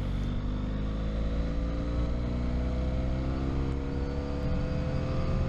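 Motorcycle engine running under load while riding, its pitch rising slowly and steadily as the bike accelerates.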